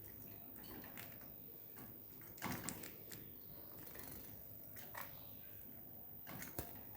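Sparse light clicks and taps from budgerigars moving about, with a louder cluster about two and a half seconds in and another near the end.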